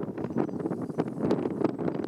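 Hooves of a large flock of sheep on the move, a rapid, irregular clatter of many small steps, with wind on the microphone.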